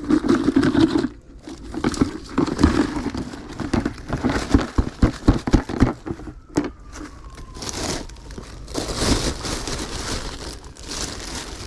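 Plastic bag of scrap metal being handled, rustling and crinkling, with a run of sharp knocks around the middle.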